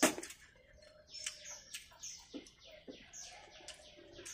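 A small bird chirping over and over, quick high falling chirps about three a second. A single sharp clink right at the start is the loudest sound, with a few faint knocks after it.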